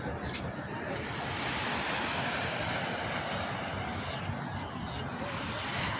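Sea surf washing ashore: a steady noise that swells from about a second in and eases off again, with wind buffeting the microphone.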